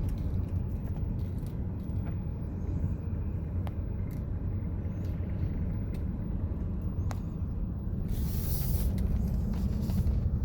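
Steady low rumble of a car's engine and tyres, heard from inside the moving vehicle, with a few faint clicks and a short hiss about eight seconds in.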